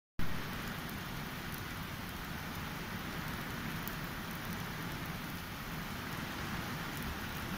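Steady heavy rain in a summer downpour, with a brief louder bump at the very start.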